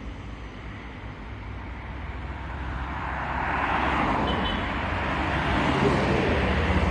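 Road traffic: a vehicle's engine and tyre noise grows steadily louder as it approaches, over a low engine rumble.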